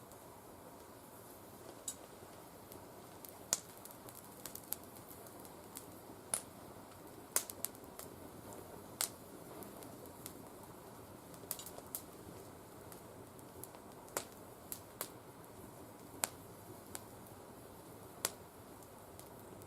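Not fully dried oak twigs burning in a mesh fire pit, crackling with sharp, irregular pops, roughly one a second, over a steady low hiss.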